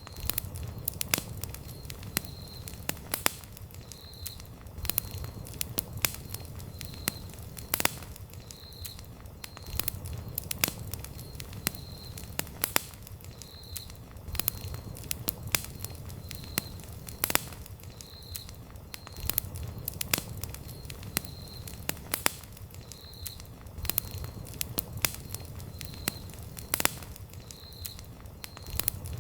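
Wood campfire crackling, with sharp pops scattered irregularly over a low rumble of the burning fire. A faint high chirp repeats about every two seconds.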